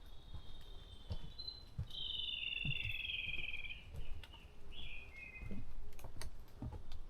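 Wild songbird singing at dawn in a forest: a long warbled phrase about two seconds in, then a shorter phrase near five seconds. Soft low knocks and thuds are heard throughout.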